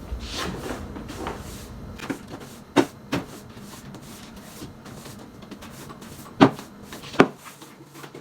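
Household objects being handled while cleaning: light scraping and rustling with several sharp knocks, two about three seconds in and two more a little past six and seven seconds.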